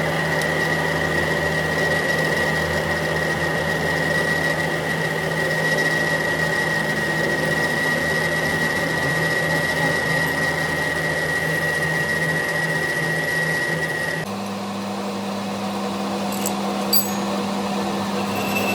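A motor-driven machine running steadily, with a high whine over a low hum. About 14 seconds in the whine stops and the hum shifts slightly higher in pitch, as if the machine changes speed or load.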